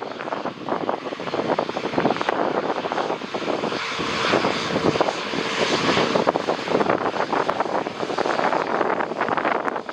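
Jet airliner engines passing, swelling to their loudest about halfway through, with gusty wind buffeting the microphone throughout.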